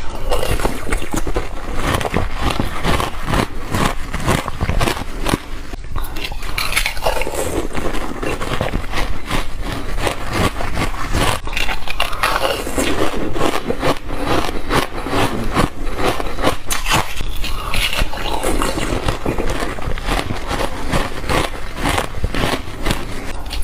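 Close-up crunching and chewing of crushed and shaved ice, a dense, continuous run of crisp crackles and crunches.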